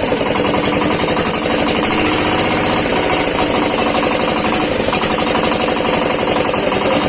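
New 16 hp diesel engine running steadily at a fast, even knocking beat during its break-in run.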